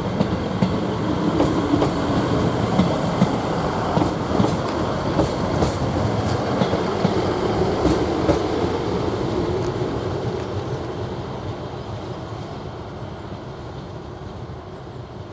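Class 158 diesel multiple unit running along the platform, its underfloor diesel engine droning and its wheels clicking over the rail joints, the sound fading away over the last few seconds as it draws off.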